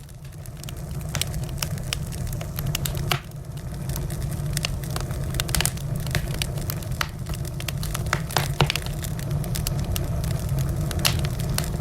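Wood fire crackling in a fireplace: irregular sharp pops and snaps of burning logs, a few louder ones scattered through, over a steady low rumble.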